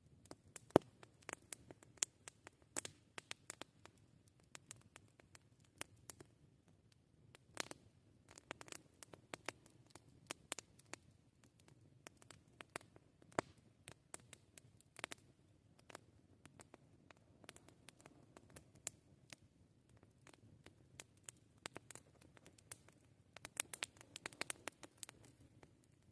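Wood campfire crackling: irregular sharp pops and snaps over a faint low rustle of burning, with a quick run of pops near the end.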